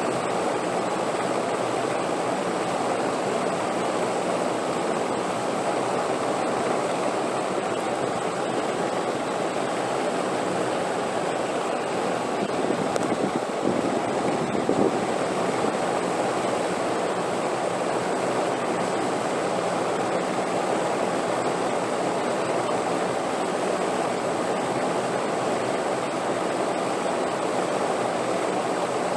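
Steady wind noise, an even constant rush, swelling slightly for a moment about halfway through, with a faint steady high whine beneath it.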